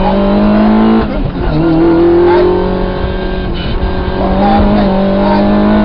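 Rally car engine running hard on a stage, its pitch climbing, then dropping sharply with a dip in level about a second in, and climbing again through the rest of the stretch.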